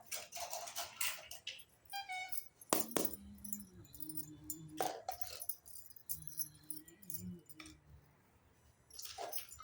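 Small pieces of a miniature toy kitchen set clinking, tapping and rattling as they are handled, with a brief ringing clink a couple of seconds in and two sharp knocks about a second later.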